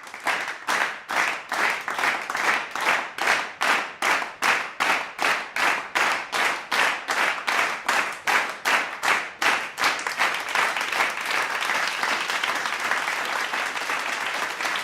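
Group of people clapping in unison at about three claps a second, breaking into continuous applause about ten seconds in.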